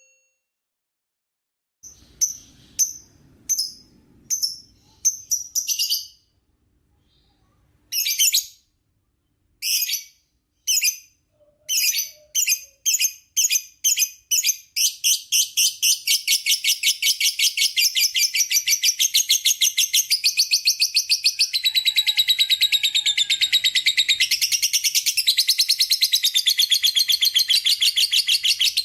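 Lovebird chirping: after a short quiet, a few separate high chirps that come faster and faster, then from about halfway a long, rapid, unbroken chattering trill, the lovebird's 'ngekek panjang'.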